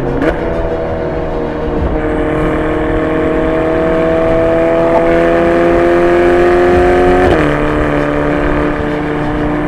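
Ferrari Portofino's twin-turbo V8 engine revved: a quick blip just after the start, then held at raised revs that climb slowly for several seconds before dropping suddenly back to a steady lower speed about seven seconds in.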